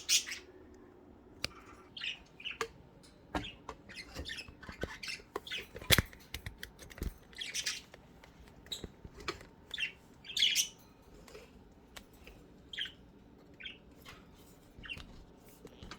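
Pet budgerigars giving short, scattered chirps and squawks, with a few sharp clicks among them, the loudest about six seconds in.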